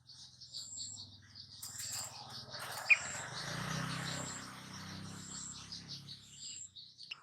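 Birds chirping over a steady insect trill, with short high notes repeating about once a second. A single sharp click comes about three seconds in.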